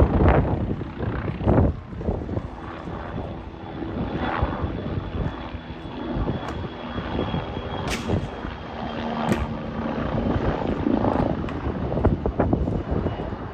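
Red Bull Bo-105 C helicopter flying a display, its main rotor and twin turbine engines running, the noise swelling and fading as it manoeuvres, with a thin steady whine above it.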